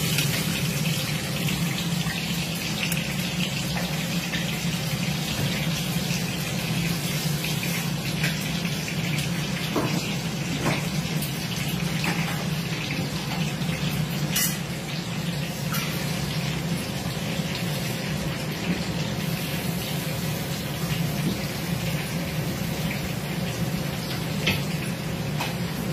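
Stuffed brinjals frying in hot oil in a kadai: a steady sizzling hiss over a low steady hum, with a few sharp clicks of a ladle against the pan.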